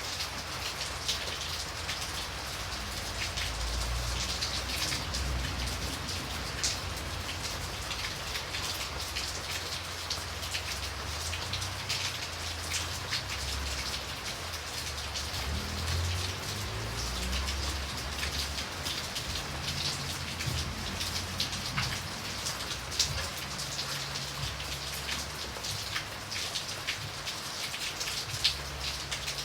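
Steady rain, with many individual drops ticking and pattering over an even hiss. A low rumble comes and goes underneath.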